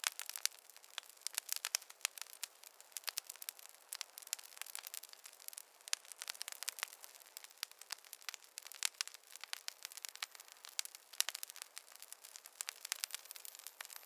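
Wood fire crackling, with dense irregular pops and snaps. Near the end there is a faint thin high whistle.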